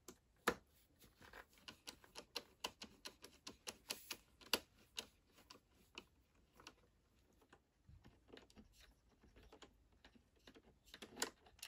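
Hand screwdriver backing long Torx T15 screws out of an iMac G4's plastic bottom housing: a run of light, irregular clicks and ticks as the driver turns and the hand regrips, thinning out in the second half.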